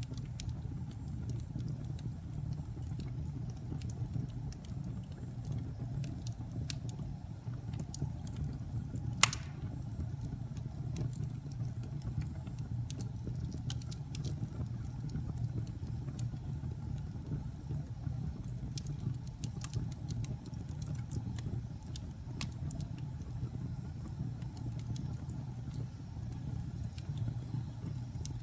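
Wood fire burning in a fireplace: scattered small crackles over a steady low rumble, with one sharp pop about nine seconds in.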